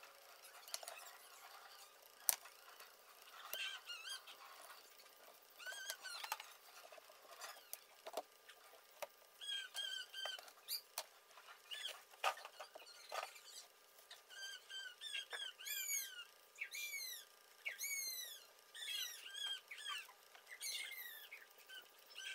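A bird chirping over and over in short, arched calls that come thicker from about ten seconds in, with a single sharp click about two seconds in.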